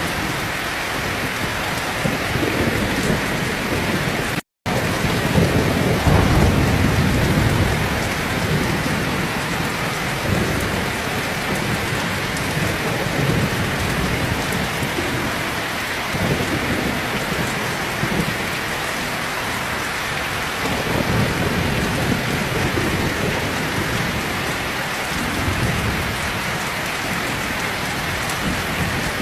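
Heavy rain pouring steadily, with low rolls of thunder swelling and fading underneath; the loudest rumble comes just after the sound cuts out for an instant about four and a half seconds in.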